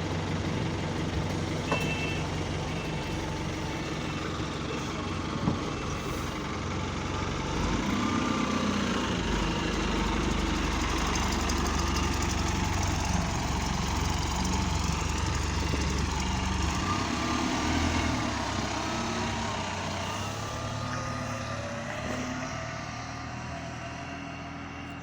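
Single-deck bus engine and drivetrain running while the bus drives, a steady rumble that grows heavier in the middle. There are two short knocks, about two and five seconds in. Near the end rising whines come in as the bus picks up speed, and the sound then eases off.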